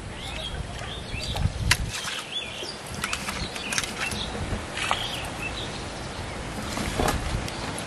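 Small birds chirping in short rising and falling calls over a low rumble, with a few sharp clicks and soft rustles scattered through.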